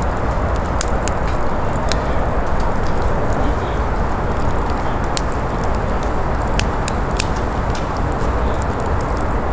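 Firewood campfire crackling, with sharp irregular pops and snaps over a steady low rushing noise.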